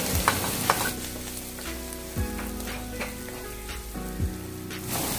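Chopped garlic, onion and carrot sizzling in hot oil in a pan, stirred with a wooden spatula that scrapes and clicks against the pan.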